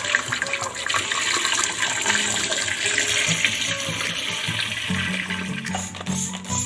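Water running from a kitchen tap, easing off about five seconds in, over background music.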